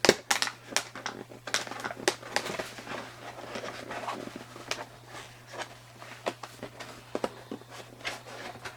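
Plastic packaging clicking and crinkling in irregular fits as a small toy tractor is worked loose from it, over a low steady hum.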